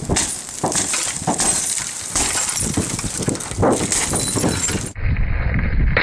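A 1992 Honda Civic being smashed: repeated crunching and breaking glass for about five seconds. The sound then cuts abruptly to a different, duller recording.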